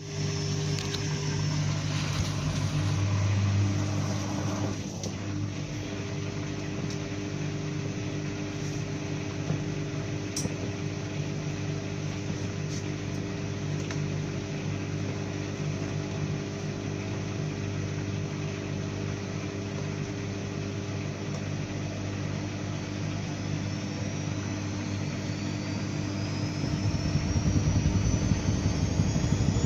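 An engine running steadily with a low, pitched hum. Near the end a rising whine comes in and the engine grows louder.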